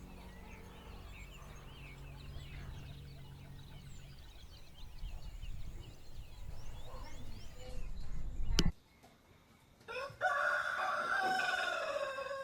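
Rooster crowing once near the end, a long, loud call. Before it, small birds chirp over a low hum, and a sharp click is followed by a brief silence.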